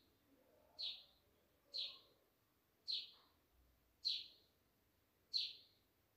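A bird chirping faintly in the background: five short, high chirps, each falling in pitch, repeated evenly about once a second.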